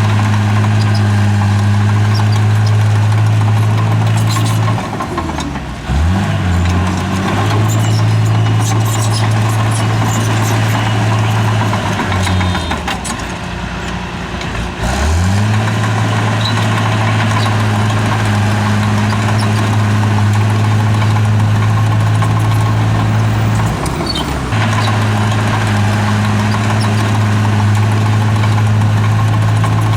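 Heavy diesel engine of earthmoving machinery running. Its pitch sags and climbs back three times: about five seconds in, again around twelve to fifteen seconds in, and briefly near the end.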